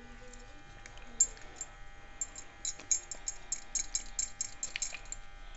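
A spoon stirring batter in a bowl, clicking against the bowl: a few scattered clicks at first, then from about two seconds in a steady run of about four or five clicks a second.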